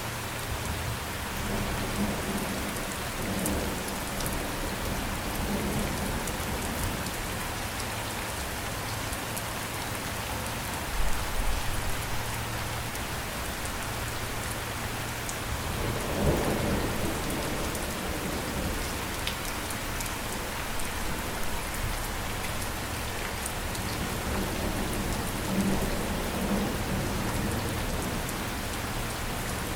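Steady rain falling, with thunder rumbling low several times, the strongest rumble about halfway through.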